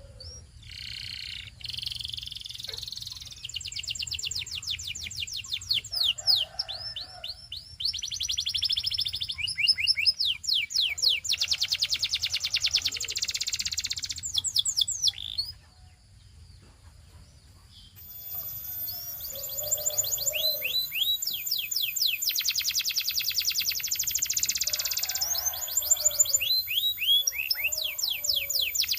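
Domestic canary singing: long rolling trills of rapid repeated notes and quick high whistled slides. The song breaks off for about two seconds a little past the middle, then starts again.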